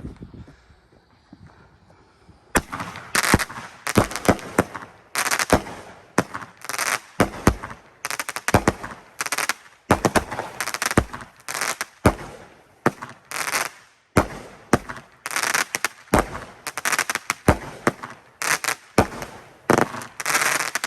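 Pro Fireworks 'Die Hard' 16-shot 200-gram consumer firework cake firing its tubes in sequence. From about two and a half seconds in, each shot is a sharp launch report followed by a crackling aerial break, about one a second.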